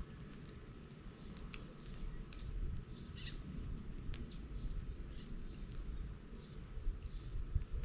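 Bonfire of dried bamboo and brush burning: scattered sharp crackles and pops over a steady low rumble. A bird chirps briefly about three seconds in.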